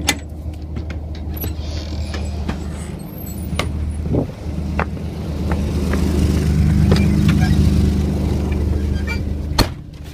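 Car engine and road noise heard from inside a moving car: a steady low drone that swells louder for a few seconds mid-way, with scattered small clicks and rattles. A sharp knock comes near the end, and then the drone drops back.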